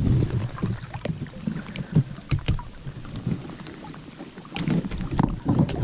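Water splashing and sloshing with irregular knocks and clicks of handling, as a hooked brown trout is landed by hand; wind rumbles on the microphone.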